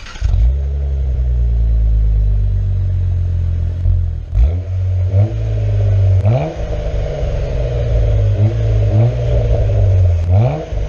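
Cadillac ATS-V's twin-turbo V6 catching on a start and running at a fast idle that slowly settles, then blipped about six times, each rev sweeping up and dropping back to idle.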